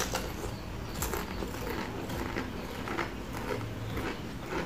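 Crisp ghost-pepper potato crisps being chewed: a run of irregular crunches, about two or three a second.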